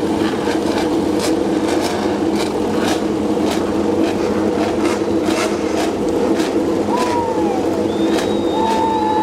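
MotoGP race bikes' engines running on the starting grid, a steady drone with many irregular sharp cracks over it. A brief whistle-like tone sounds near the end.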